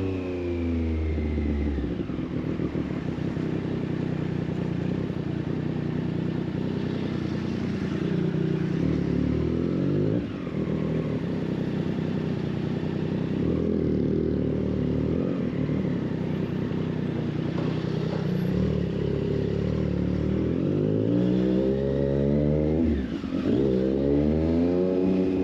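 2024 Triumph Street Triple 765 RS's three-cylinder engine running through a Racefit Growler full exhaust while riding. The pitch drops off at the start and holds fairly steady at cruising speed through the middle. Near the end it revs up twice with a short break between, which fits a gear change.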